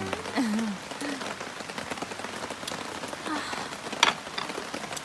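Heavy rain falling steadily, an even hiss of drops. There is a short murmur of a voice in the first second, and one sharp click about four seconds in.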